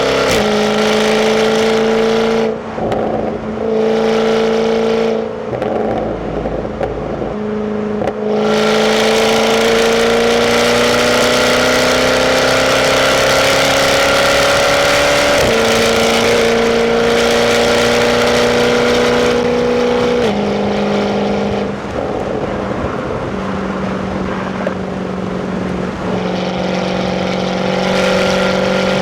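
Jaguar F-Type's 5.0 V8 on its stock exhaust, heard from the passenger seat while driving. The engine note dips for a few seconds near the start, then climbs steadily under acceleration for several seconds and steps down at two upshifts before settling into a steady cruise.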